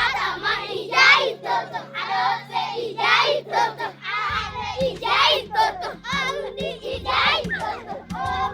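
Children's voices singing together, over a low background music bed that changes about four seconds in.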